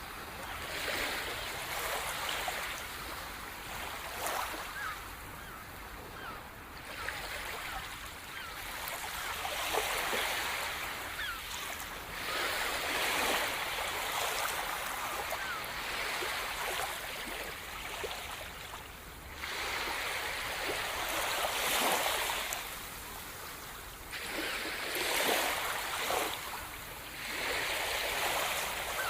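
Rushing water noise that swells and fades in surges every few seconds, like waves washing in and drawing back.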